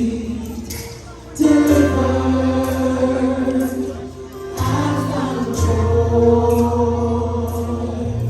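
Choir singing a gospel worship song with band accompaniment: held sung notes over a bass line, with regular drum and cymbal hits.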